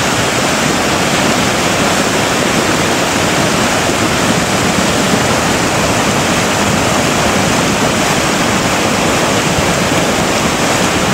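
Rain-triggered lahar (volcanic mudflow) rushing down a river channel, laden with boulders and sand: a loud, steady roar like a jet engine.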